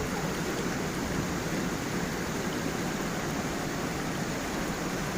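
Steady rush of water from a small waterfall on a gentle stream.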